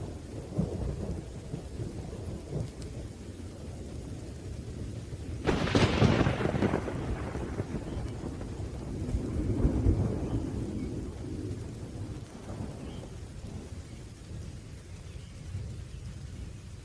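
Thunderstorm: low rolling thunder with steady rain, and a sharp, loud thunderclap about five seconds in that rumbles away over the next few seconds, with a smaller roll of thunder around ten seconds.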